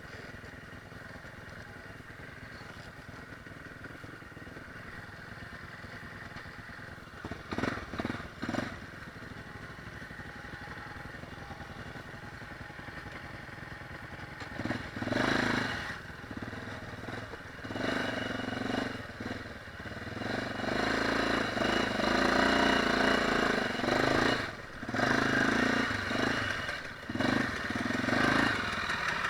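Off-road dirt-bike engine running at a low idle, then revved hard in repeated surges from about halfway, rising and falling.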